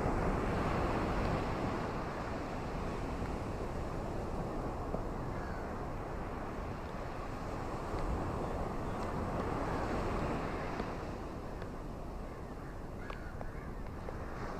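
Ocean surf washing onto a beach: a steady rushing noise that swells twice, at the start and again about eight seconds in, then eases back.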